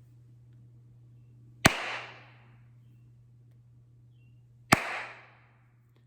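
Gunshots, one at a time, twice about three seconds apart, each a sharp crack with a short echoing tail.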